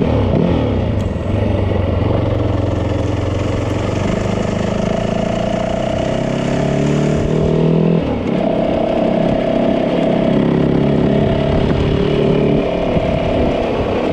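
Yamaha 450 dirt bike's single-cylinder four-stroke engine running under load while being ridden. The revs climb, drop sharply about eight seconds in, then pick up again.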